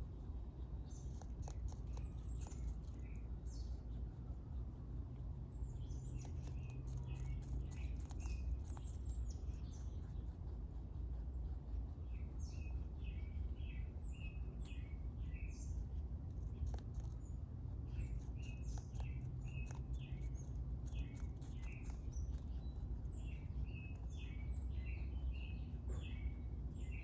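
A rabbit chewing close to the microphone: rapid crisp crunching clicks. Small birds chirp in short runs of notes, over a steady low background rumble.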